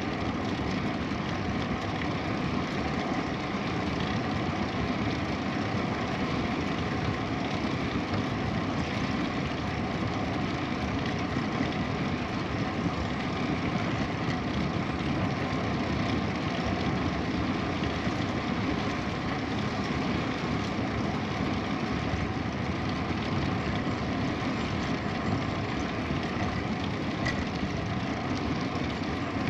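Steady rushing noise of a bicycle ride: wind on the microphone and tyres rolling on the path.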